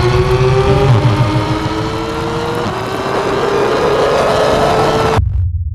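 Porsche 911 GT3 (991) naturally aspirated flat-six breathing through an Akrapovič titanium exhaust, accelerating hard, its pitch climbing steadily. The engine sound cuts off suddenly near the end, leaving a low rumble.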